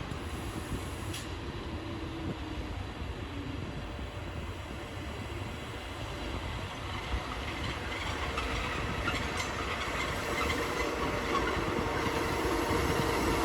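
A train approaching through the station, growing steadily louder, with a steady tone and rising rail and wheel noise in the second half.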